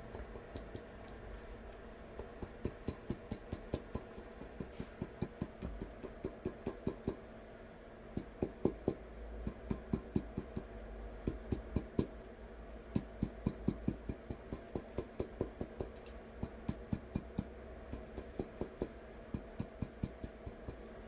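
Runs of quick light taps, several a second with short pauses between runs, over a faint steady hum.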